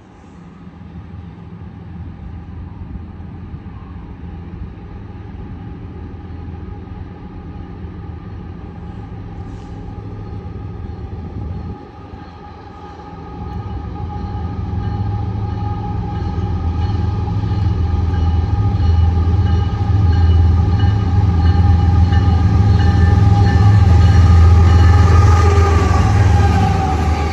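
Diesel-led freight train approaching and passing at speed. A low rumble grows steadily louder and peaks as the locomotive goes by near the end, with steady high ringing tones above it.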